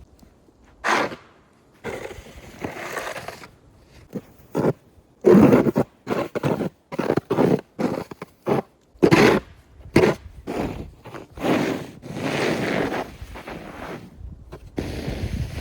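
Wide snow-pusher shovel scraping and pushing through snow in a run of irregular short strokes.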